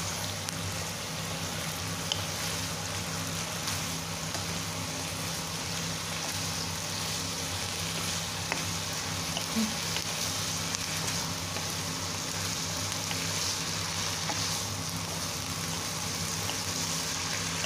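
Chives, dried tofu and pork strips sizzling steadily in a hot non-stick pan as they are stir-fried with a spatula, with a steady low hum underneath.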